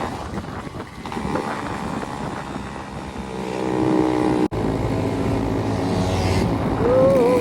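Two-stroke Yamaha RX-series motorcycle engines revving up and down, with an abrupt cut about four and a half seconds in. Near the end a wavering high tone sounds over the engines.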